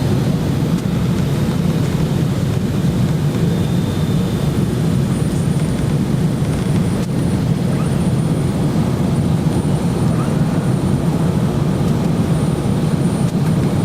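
Steady, low-pitched jet engine and airflow noise heard inside an airliner's passenger cabin during the descent to land. It is even throughout, with no sudden changes.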